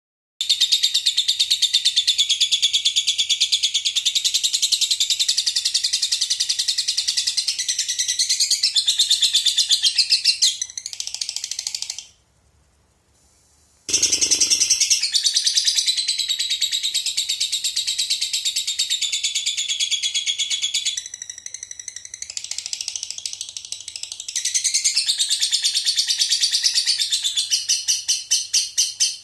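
Lovebird singing its long, rapid chattering trill (ngekek) in very long unbroken runs, the 'konslet' style that Indonesian lovebird keepers prize. The song stops for about two seconds near the middle and starts again with a short low thump.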